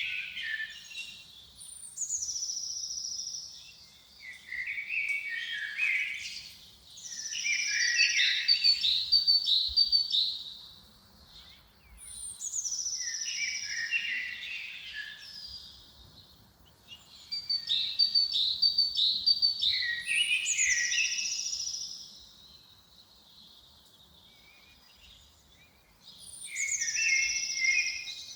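A songbird singing the same short, high, trilling phrase over and over, a few seconds apart, with a longer pause near the end.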